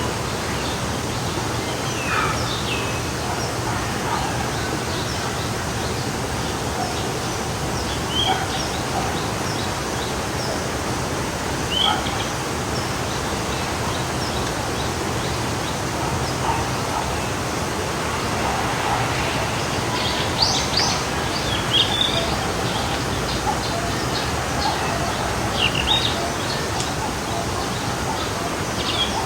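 A forest stream flowing with a steady rush of water, and small birds chirping and calling now and then over it, most often in the last third.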